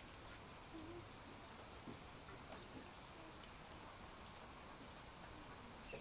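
Insects chirring in a steady, high-pitched, unbroken chorus.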